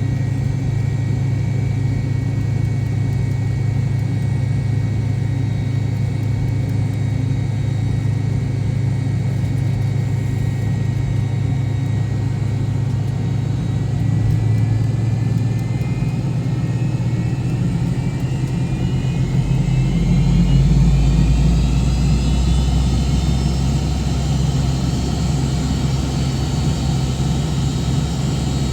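Cabin noise inside an MD-88 airliner: a steady low rumble from its rear-mounted Pratt & Whitney JT8D engines. About halfway through, the engine whine climbs steadily in pitch and the rumble grows a little louder as the engines spool up under added thrust.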